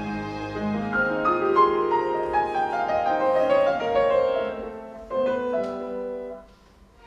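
Concert grand piano playing a solo passage in a classical piano concerto, a run of single notes that thins out and dies away near the end.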